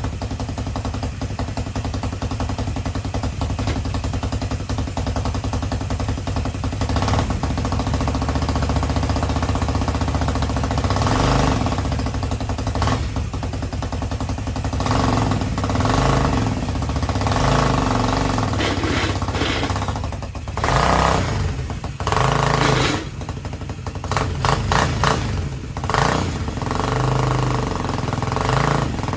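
Small go-kart engine running and revving several times; when the clutch is let out the drive chain clatters as it skips teeth on the sprocket, a mismatched and still loose chain.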